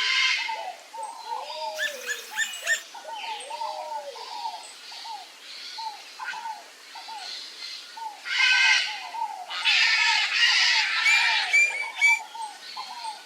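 Several wild birds calling: an unbroken run of short, low, arching notes, with louder, harsher calls breaking in near the start, about two seconds in, and again from about eight to twelve seconds.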